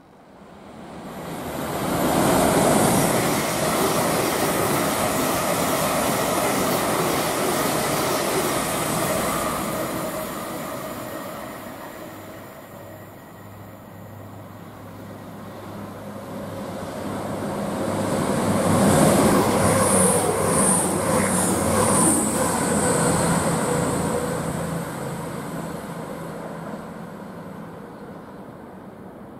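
Passenger trains passing through a station. A first train runs loud for several seconds and fades. A second comes in with a steady low hum, passes with a high wheel-on-rail hiss and a quick run of wheel clicks over rail joints, then dies away.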